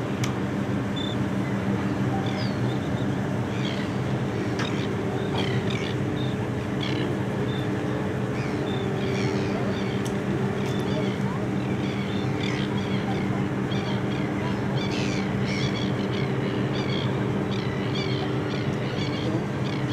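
A flock of birds calling in many short, high cries over the steady drone of an engine.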